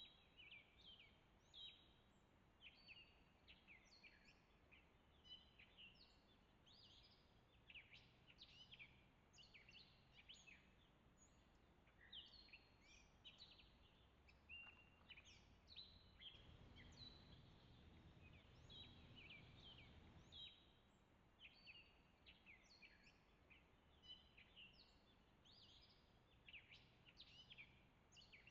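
Several songbirds chirping and calling in quick, overlapping notes, faint. A low rumble swells for a few seconds past the middle.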